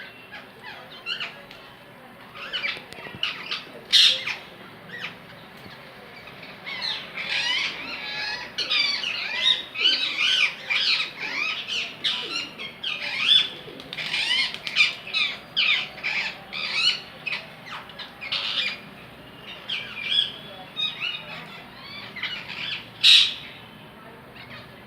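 Parrots calling: a busy run of short squawks and chirps that thickens through the middle, with two loud, sharp squawks, one about four seconds in and one near the end.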